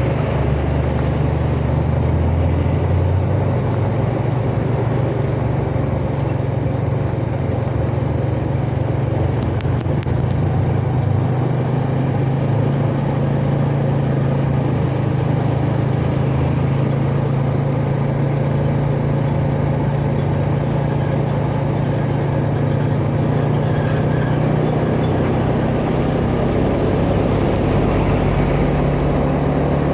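Yamaha Jupiter Z's small four-stroke single-cylinder engine running steadily at cruising speed, with road and wind noise on a chest-mounted phone.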